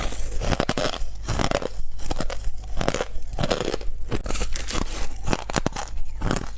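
White ice being bitten and crunched between the teeth: a rapid, uneven run of sharp crunches.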